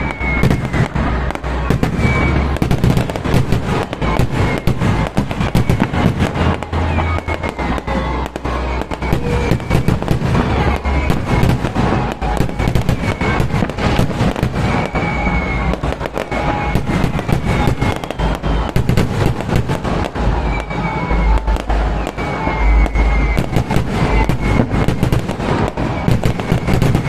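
Fireworks going off in a dense, continuous string of bangs, many per second, with short falling whistles here and there.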